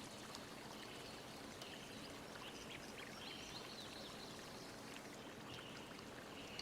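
Faint, steady rushing noise with a few faint, short, high chirps scattered through it.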